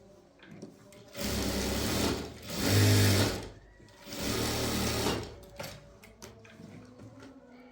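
Sewing machine running in three short bursts of about a second each, the middle burst the loudest.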